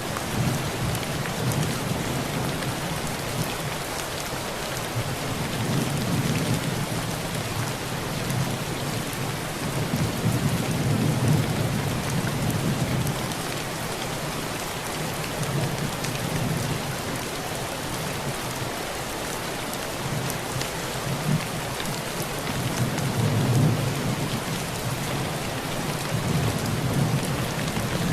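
Heavy rain pouring steadily on a tin roof, with low rolls of thunder swelling and fading several times.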